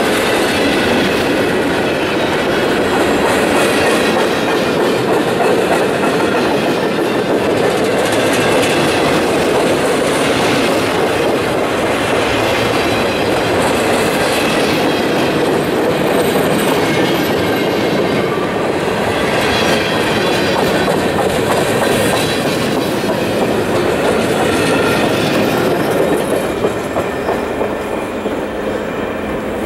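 Mixed freight train of covered hoppers, boxcars and centerbeam flatcars rolling past at close range: a steady loud noise of steel wheels on the rails that eases off in the last few seconds as the end of the train goes by.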